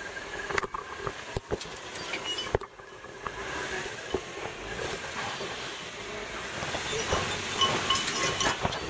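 Off-road vehicle crawling slowly over rocks, its engine running steadily, with scattered sharp knocks and clicks as it works over the rock.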